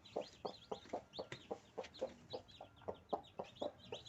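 Newly hatched kampung chicks peeping in a constant chorus of short high chirps, while a hen clucks over them in short low clucks about four times a second.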